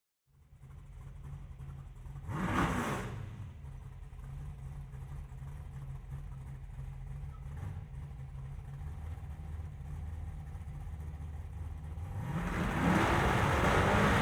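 Car engine idling with a steady low rumble, a brief rev about two seconds in, then revving up louder near the end.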